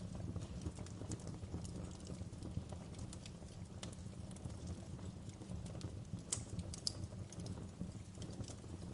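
Wood fire crackling in a fireplace: scattered sharp pops and snaps over a low steady rumble, with two louder snaps about two-thirds of the way through.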